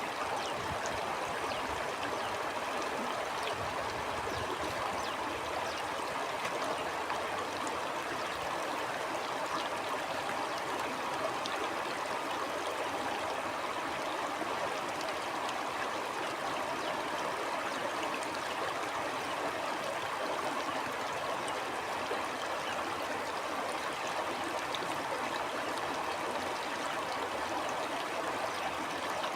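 Stream flowing steadily, an even, unbroken rush and trickle of running water.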